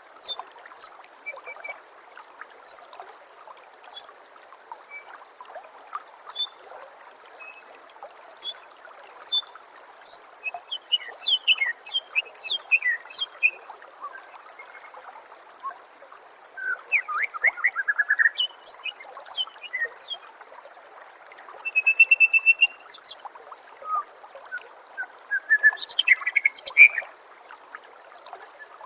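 White-rumped shama (murai batu) singing: separate short whistled notes, then bursts of fast sweeping notes and trills in the second half. Steady trickling water runs underneath.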